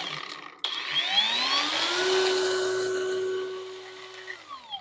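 Cordless brushless angle grinder's motor running free: a short run cuts out about half a second in, then it is switched on again, whines up to speed over about a second, runs steady, and winds down near the end as the trigger is released.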